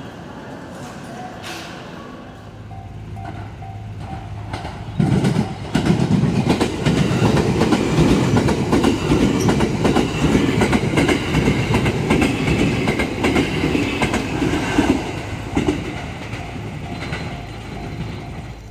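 A JR 287 series electric limited express train passes close by, its wheels clattering over the rail joints, loudest from about five seconds in until it fades near the end. A Japanese level-crossing bell rings in a steady repeating ding before the train arrives and again near the end.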